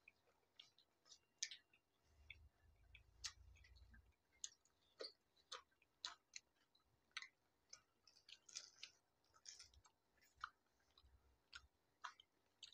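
Faint chewing of pani puri: wet mouth sounds with small irregular clicks and crackles as two people eat.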